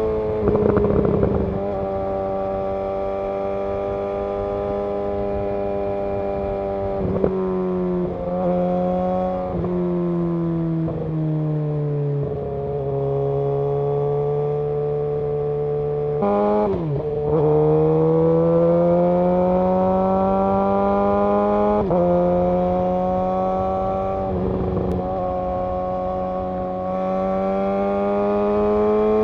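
Suzuki GSX-R 750's inline-four engine running under way, its note rising and falling with throttle and gear changes. It steps down to a low steady note around the middle, dips sharply near 17 seconds, then climbs gradually again.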